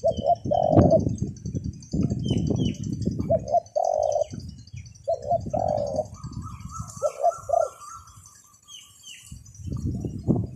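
Dove cooing in short repeated phrases, about five times, over gusts of wind buffeting the microphone, with small birds chirping faintly.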